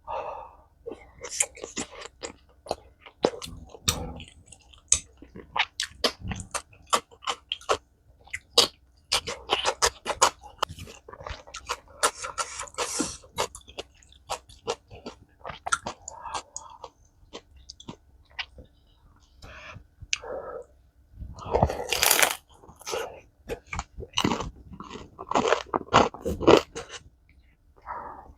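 Close-miked mukbang eating: a person chewing with crunching bites and wet mouth clicks. There are a few longer, louder bursts around the middle and later on.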